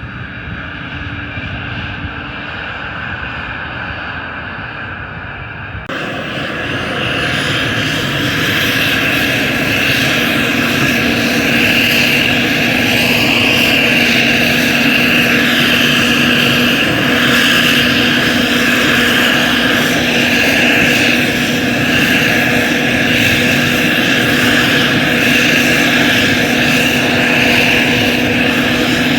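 UH-60 Black Hawk helicopters' twin turboshaft engines whining steadily over the rotor roar, as the group runs up for takeoff. The noise jumps sharply louder and fuller about six seconds in, then holds steady.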